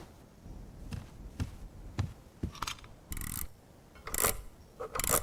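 Clockwork mechanism of a jewelled mechanical toy nightingale being set going: a series of small clicks and knocks with a few short metallic scrapes about three, four and five seconds in.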